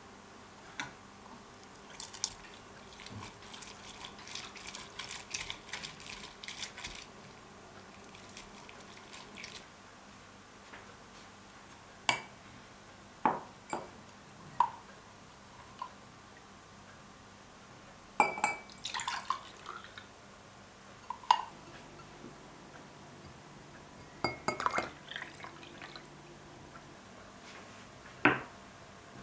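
Scattered light clinks and taps of small hard objects being handled, some with a brief ringing tone, after a few seconds of rapid crackly ticking near the start.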